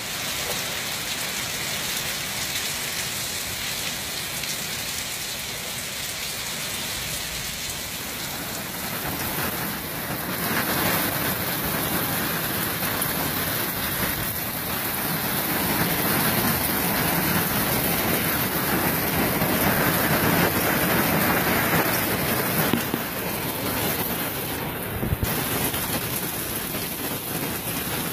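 Heavy rain pouring down in a thunderstorm, a dense steady hiss of a downpour that grows heavier about ten seconds in. A couple of brief sharp taps stand out near the end.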